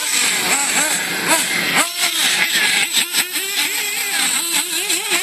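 Radio-controlled cars' motors running, their pitch rising and falling quickly and repeatedly with short bursts of throttle, over a steady high whine.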